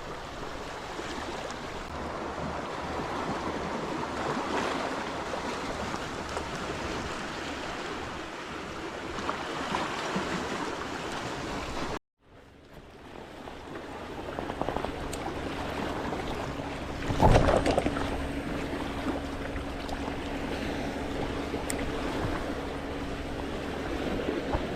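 Sea water washing and wind buffeting the microphone. About halfway through, the sound drops out to silence and fades back in. A steady low hum then runs under the water, with one sharp knock a few seconds after the sound returns.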